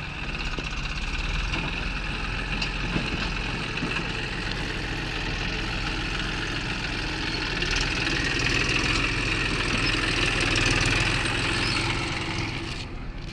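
JCB backhoe loader's diesel engine running steadily, getting louder for a few seconds past the middle before easing off near the end.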